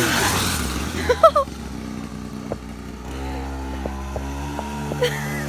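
Small dirt-bike engine, its revs falling at the start and then settling to a steady idle. A few short high chirps about a second in are the loudest sounds.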